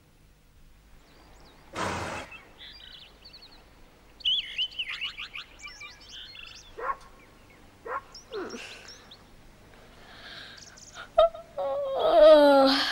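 Cartoon nature soundtrack: birds chirping in short high glides, with a brief rushing whoosh about two seconds in and scattered clicks. Near the end comes the loudest sound, a falling cry with several pitches.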